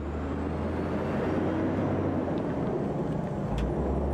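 A heavy road-train truck running steadily on the road: a constant low engine drone with road noise over it.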